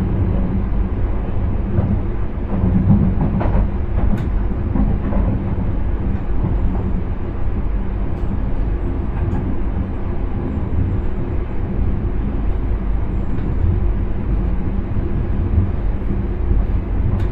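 Intercity train heard from the driver's cab while running along the track: a steady low rumble with a few sharp clicks about three and four seconds in.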